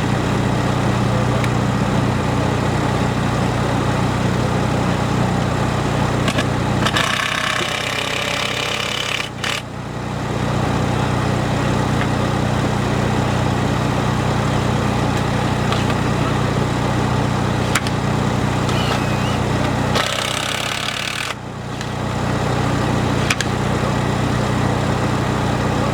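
Construction machinery engine running steadily with a low drone. Twice the drone dips for a second or two while a higher rattling hiss comes in.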